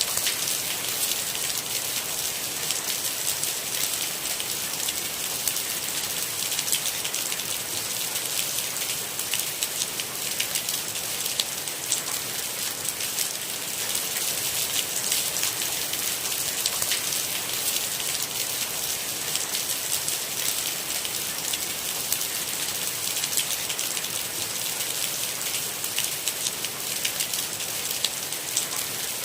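Steady rain: a dense patter of many small drops over an even hiss, strongest in the high range, with no thunder.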